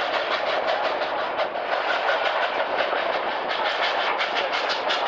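Durango and Silverton narrow-gauge steam train running, heard from one of its cars: a steady rush of wheel and rail noise with a fast, even beat of several strokes a second.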